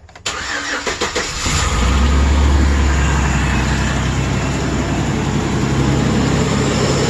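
2008 Chevrolet Express van's engine cranked by the starter for about a second, then catching and settling into a steady idle.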